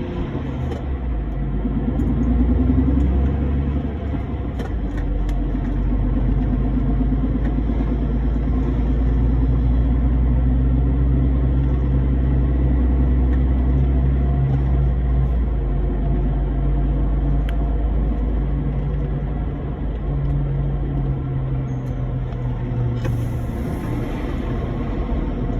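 Truck engine running steadily under way, a continuous low drone with road rumble, its pitch shifting slightly a few times.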